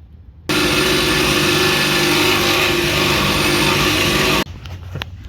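Power saw cutting into a truck's steel exhaust pipe: it starts about half a second in, runs loud and steady for about four seconds, then stops abruptly. The blades are dull and broken, making the cut slow going.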